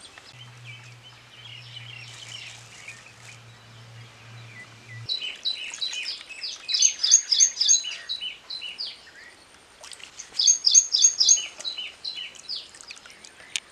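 A songbird singing two bouts of quick repeated high notes, starting about five seconds in and again about ten seconds in, over fainter chirping from other birds. A low steady hum runs under the first five seconds.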